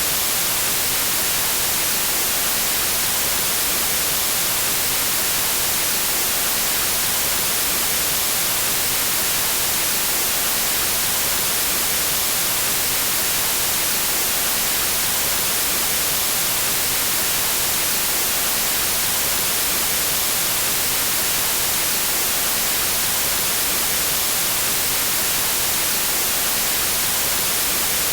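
Steady white noise: an even, unchanging hiss spread across all pitches, strongest in the highs.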